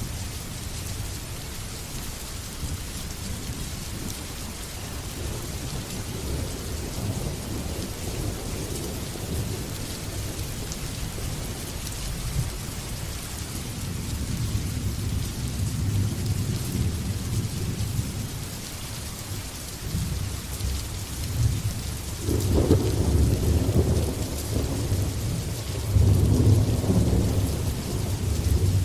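Steady heavy rain with rolling thunder. The low rumble builds through the second half, with two louder peals in the last third, the later one the loudest.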